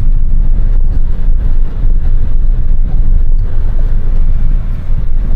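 Semi truck driving along, a steady low rumble of engine and road noise.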